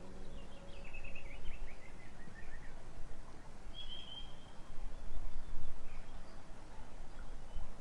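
A bird calling: a rapid series of short chirps that step down in pitch, then a single short whistle about four seconds in, over steady outdoor background noise.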